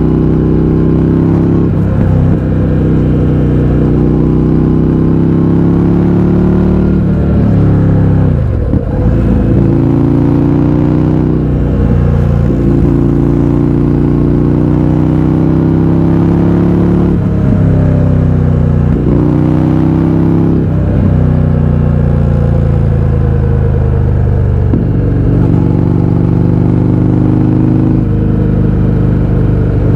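Indian FTR 1200's 1203 cc V-twin running loud through an Akrapovič exhaust with the baffles removed, ridden on the road. The engine note climbs steadily again and again, each climb broken by a quick drop in pitch as the bike shifts.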